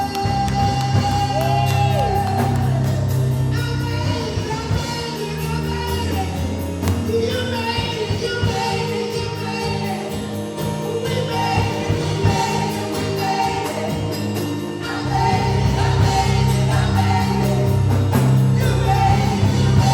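Gospel worship music: singing voices over a band. The heavy bass thins out about four seconds in and comes back strong near the three-quarter mark.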